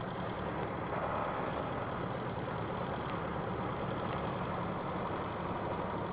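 A heavy vehicle's engine running steadily with an even rumble.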